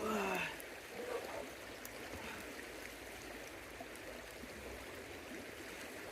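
A river flowing with a steady rush of water. A short, falling vocal sound comes at the very start.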